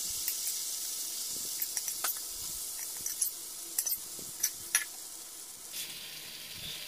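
Pressure-cooked beef masala sizzling in a non-stick frying pan as its cooking liquid boils off: a steady hiss with scattered crackling pops.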